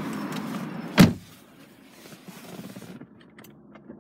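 A Volvo V70 car door being shut with a single solid thud about a second in, after which the steady background noise drops away.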